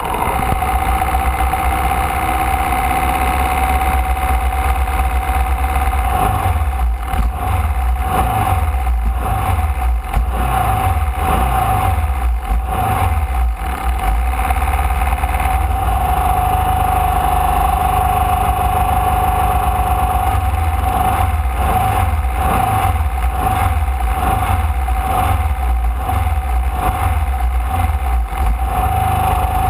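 Formula Vee race car's air-cooled Volkswagen flat-four engine running, its low pulsing note rising and falling, over a steady high-pitched whine.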